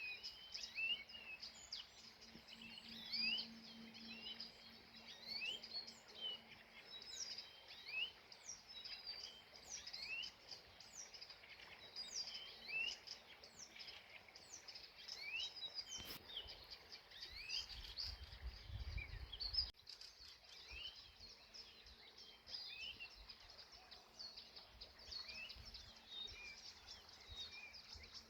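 A chorus of many small birds chirping and singing, with short quick notes overlapping continuously. About two thirds of the way through there is a sharp click and then a brief low rumble.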